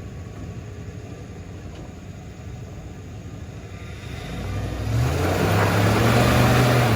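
A motor vehicle's engine running, low and steady at first, then growing much louder from about four seconds in and loudest over the last two seconds before dropping off sharply, like a vehicle coming up close.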